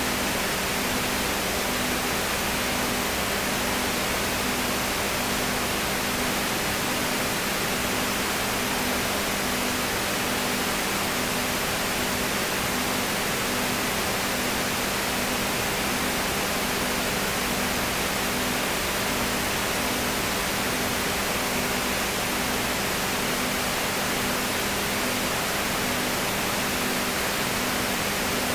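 Steady hiss with a low hum that pulses in an even, rapid rhythm, unchanging throughout.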